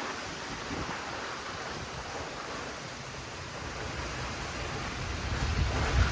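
Strong gusty storm wind rushing, with low buffeting on the microphone that builds near the end.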